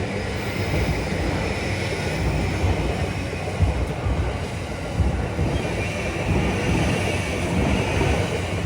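Train running on its rails: a loud, steady rumble with hiss and a faint high whine.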